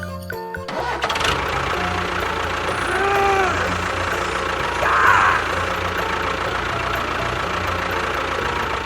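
An engine running with a steady low pulsing rumble, starting about half a second in as the music stops. A short rising-then-falling tone sounds about three seconds in.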